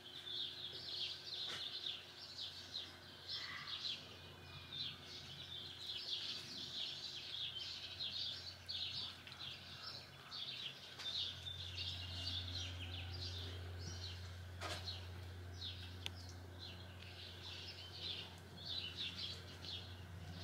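Birds chirping continuously in quick, irregular short notes. About halfway through, a steady low hum comes in, and there is a single sharp click near the end.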